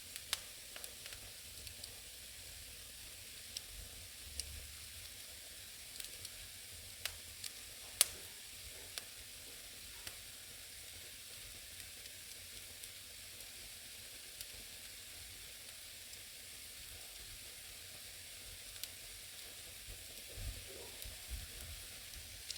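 Firewood burning in an old fireplace: a steady soft hiss with scattered sharp crackles and pops at uneven intervals, the loudest pop about eight seconds in.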